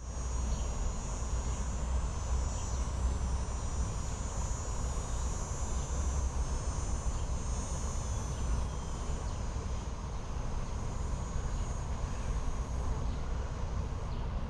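Outdoor ambience: a steady low rumble with a continuous high, even drone of insects such as crickets.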